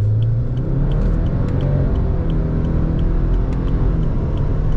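Subaru Forester tS STI's 2.0-litre turbocharged flat-four launching from a two-pedal hold at 2500 rpm and accelerating hard through its CVT in S mode, the engine note rising over the first two seconds and then levelling off under a heavy road and tyre rumble.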